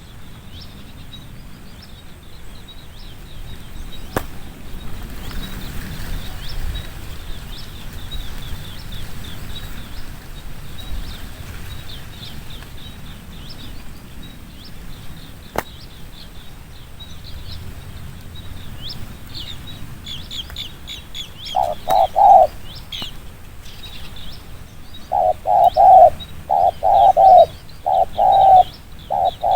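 Male spotted dove cooing in loud, quick repeated notes, a couple about two-thirds of the way in and then a fast run near the end, the rapid 'thúc gù' coo that keepers prize. Small birds chirp faintly throughout.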